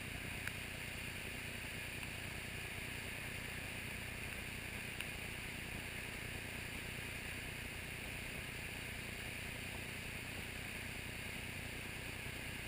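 Floodwater rushing steadily: a constant even hiss that does not change.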